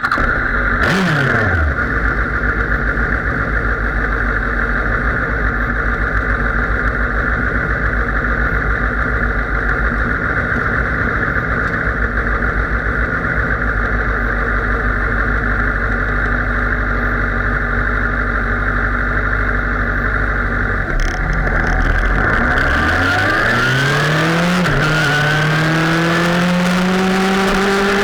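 Sportbike heard from on board at track speed: a steady loud rush of engine and wind. Near the end the engine revs climb, dip briefly at an upshift, then climb again.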